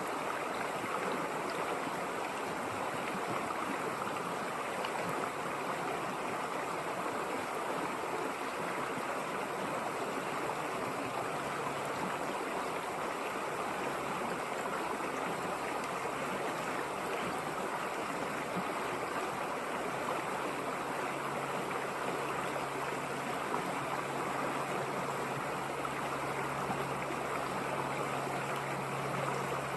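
River water rushing and flowing steadily, an even wash of sound with no pauses. A faint low hum joins in about two-thirds of the way through.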